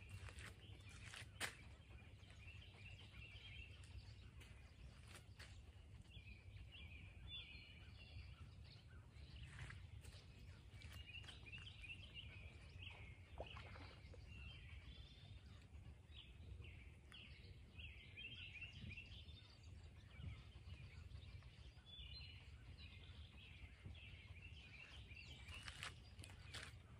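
Faint outdoor quiet: a songbird singing short, repeated chirpy phrases every few seconds over a low steady rumble, with a few faint clicks.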